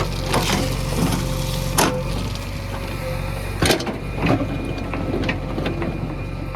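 Diesel engine of earthmoving machinery running steadily, with a series of sharp knocks and clanks over it; the loudest comes about three and a half seconds in.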